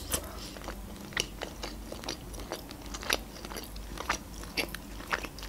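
Close-miked chewing of rotisserie chicken: a series of short, irregular wet mouth clicks while the meat is chewed with the mouth closed.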